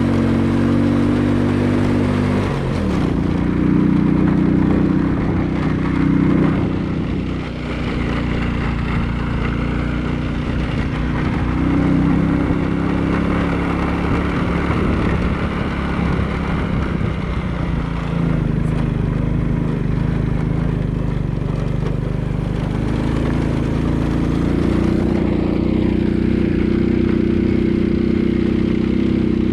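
A vehicle engine running steadily while under way, over road and wind noise. Its pitch drops about two and a half seconds in, shifts again midway, and rises near the end as the speed or gear changes.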